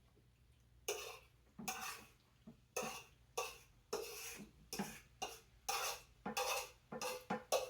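Metal utensil scraping and clanking against a pot again and again, about once or twice a second, as pasta is scooped out onto plates.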